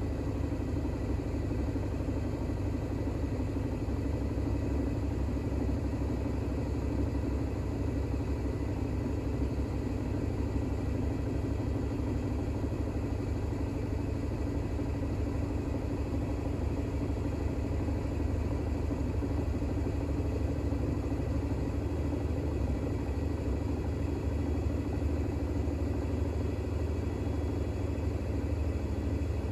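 Bosch WAX32GH1 front-loading washing machine in a 1200 rpm intermediate spin, the drum and motor running at a steady speed with a constant low drone and a faint high whine.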